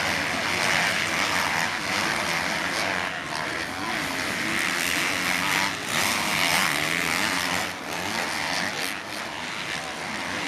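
Several motocross bikes racing, their engines revving up and down with shifting pitch.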